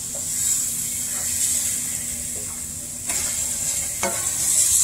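Flour-battered minute steaks sizzling as they fry in grease in a pan, a steady hiss. Two light knocks about three and four seconds in.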